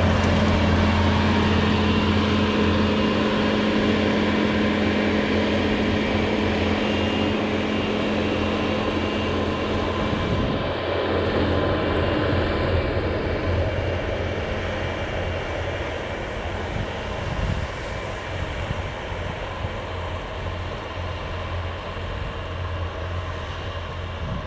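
Bobcat T595 skid steer running with its SB200 snowblower attachment: a steady low engine hum that shifts about ten seconds in and then slowly gets a little quieter.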